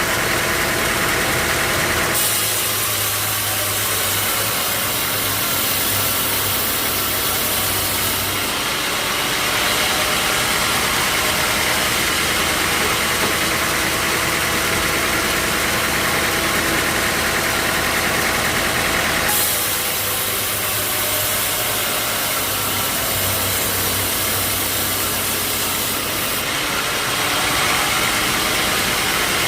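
Sawmill machinery running steadily: an engine with a heavy hiss over it. The sound changes character abruptly a few times.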